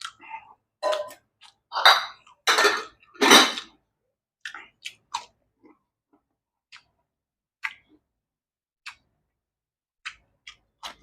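A person chewing raw vegetables with sambal close to the microphone: a run of loud, noisy chews about two to three and a half seconds in, then scattered soft mouth clicks and smacks.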